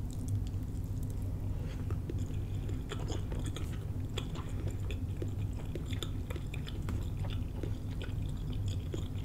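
A person chewing a mouthful of cooked cabbage and sausage close to the microphone: soft, irregular wet clicks and smacks of the mouth. A low, steady hum runs beneath.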